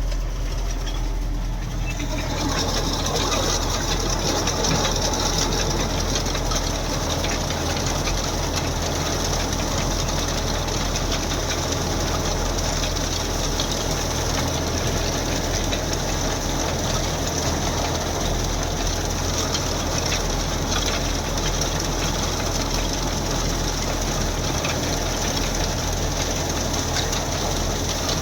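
Diesel tractor engine running steadily in the field with a working implement. About two seconds in, a loud rushing, rattling machine noise joins the low engine sound and holds steady.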